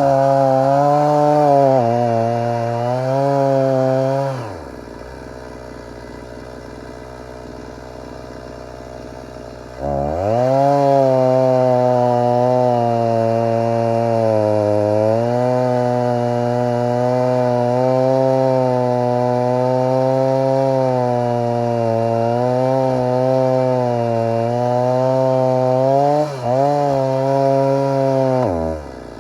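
Stihl MS 290 two-stroke chainsaw at full throttle for about four seconds, then dropping off. Around ten seconds in it revs up again and runs flat out for about eighteen seconds, its pitch wavering as it works through dry wood. It dips briefly once and drops back near the end.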